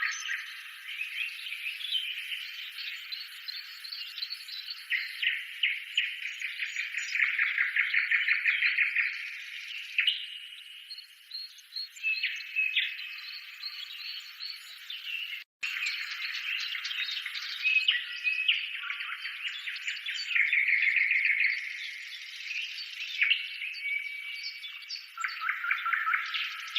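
Many birds chirping, whistling and trilling together in a dense, continuous chorus, with a momentary break in the sound about halfway through.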